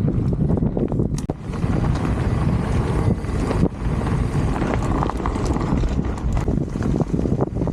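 Wind buffeting the microphone of a moving bike-mounted camera, a loud steady rumble, with scattered knocks and rattles from the ride.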